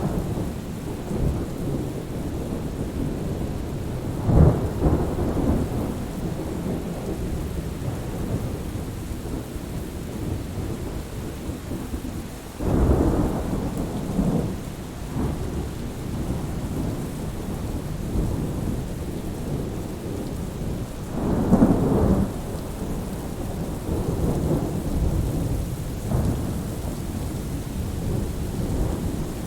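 Steady rain with rolling thunder: a low rumble swells about 4 s in, a stronger one about 13 s in, and another about 21 s in, with smaller rumbles between.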